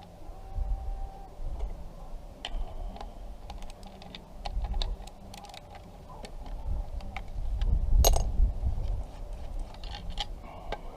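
Scattered small metallic clicks and knocks of hands and tools working the float bowl off a small-engine carburetor, with one louder knock about eight seconds in.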